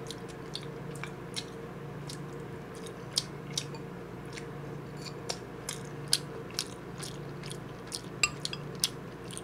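Close-miked chewing and wet mouth sounds of someone eating rice and soft tofu from kimchi stew: a dozen or so scattered short clicks and smacks, over a steady low hum.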